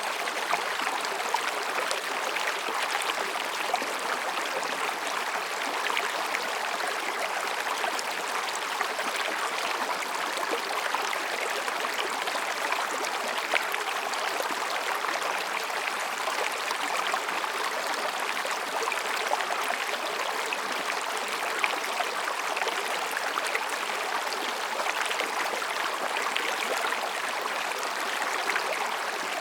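Mountain stream flowing between rocks: a steady babbling rush of water, dotted with small splashes.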